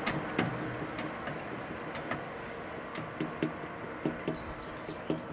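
JR West 115-series electric train running off into the distance, its wheels knocking over the rail joints in a regular clickety-clack that fades slightly.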